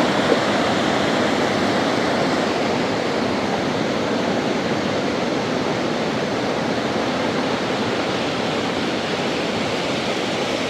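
Water rushing steadily from the storm: a loud, even hiss with no breaks, beats or separate drops.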